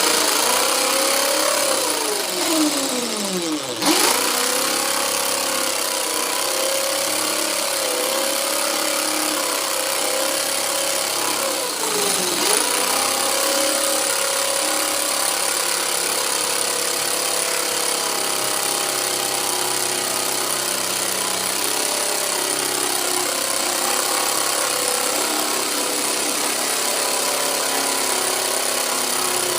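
Electric power saw running and cutting wood along a curve, starting abruptly. Its motor pitch sags sharply a few seconds in and again about twelve seconds in as the blade bogs down under load.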